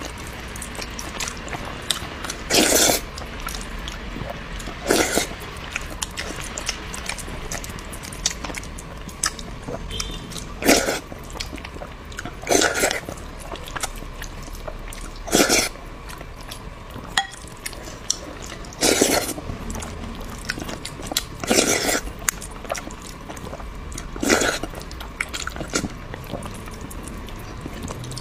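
Close-miked eating sounds: a person chewing and biting food, with small wet clicks throughout and a louder burst about every two to three seconds.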